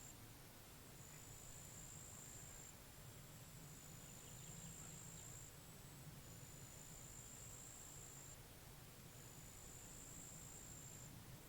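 An insect, cricket-like, trilling in high-pitched bursts about one and a half to two seconds long, repeated with short pauses about four times. Beneath it there is a faint low hum.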